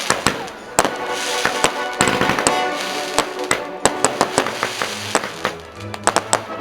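Fireworks going off in a string of sharp bangs and crackles, with a quick cluster of bangs near the end, heard together with music.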